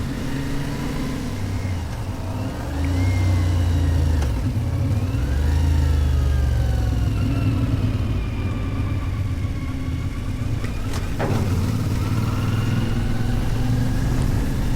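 Dual-sport motorcycle engine under way, revs climbing and dropping again and again as it pulls through the gears, over a steady low rumble. A single sharp click about three-quarters of the way through.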